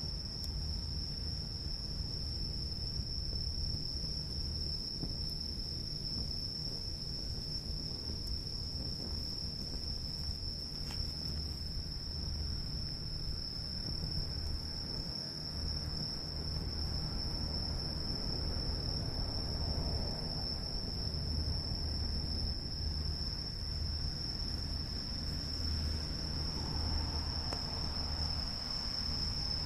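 Insects, crickets or similar, trilling as one continuous, even, high-pitched tone that does not change, over a low steady rumble.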